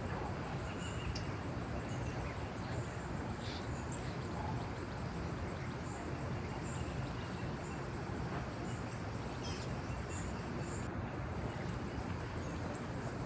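Forest ambience: scattered short, high chirps from insects and birds over a steady background hiss.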